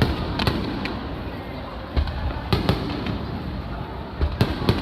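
Aerial fireworks shells bursting, about nine sharp bangs that come in clusters at uneven intervals, over a steady rumble.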